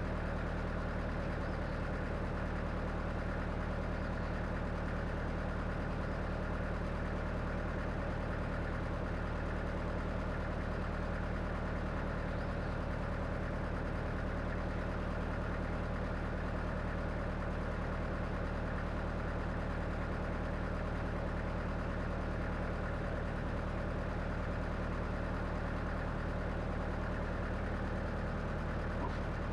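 Woodmizer LX25 hobby sawmill's engine running steadily at a constant speed.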